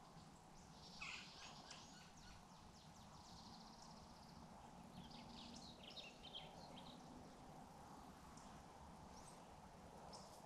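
Faint bird chirping over a quiet outdoor background: a quick run of short high chirps about a second in, and another from about five to seven seconds in.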